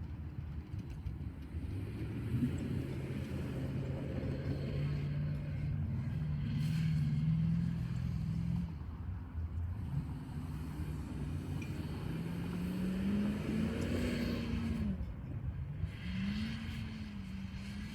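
Hummer H3 Alpha's V8 engine pulling under throttle: its pitch climbs steadily for several seconds, drops away, then climbs twice more over a low rumble.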